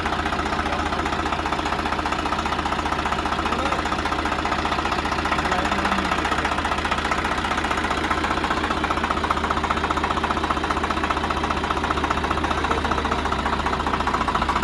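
Tractor engine running steadily with a fast, even knock.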